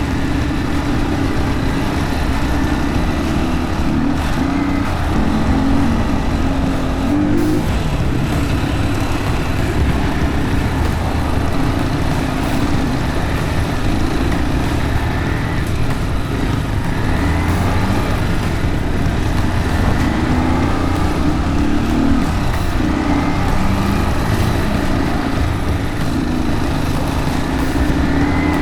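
Yamaha WR155R's single-cylinder four-stroke engine running under changing throttle on a dirt trail, its pitch rising and falling.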